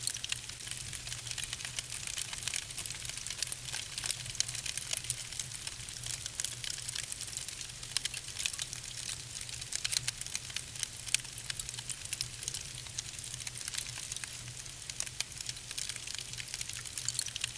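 Wood fire in a fireplace crackling: a dense, irregular run of sharp pops and snaps over a soft steady hiss from the burning logs.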